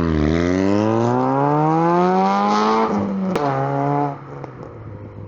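Citroën Saxo VTS 1.6 16-valve four-cylinder through a decat straight-through stainless steel exhaust with a single small back box, accelerating hard: the engine note climbs for nearly three seconds, then drops sharply as with a gear change, with one sharp crack. About four seconds in the sound falls away much quieter.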